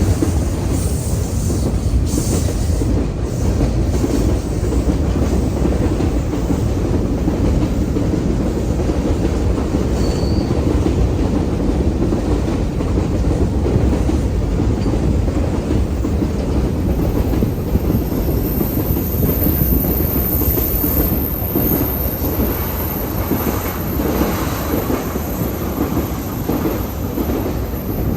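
Railcars rolling past at close range in a steady stream, their wheels clattering over rail joints with a continuous low rumble.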